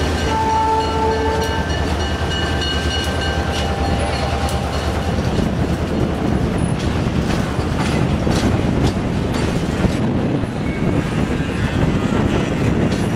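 Railroad cars rolling past on the track: a steady rumble with scattered wheel clicks, and a brief high-pitched squeal near the start.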